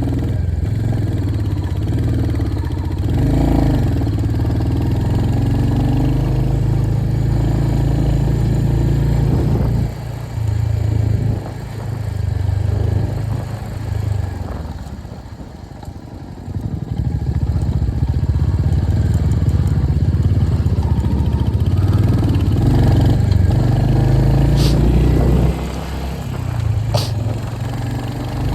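Royal Enfield Hunter 350's 349 cc single-cylinder engine running under way. Its note falls away for a few seconds about halfway through, then picks up again, and there are two short ticks near the end.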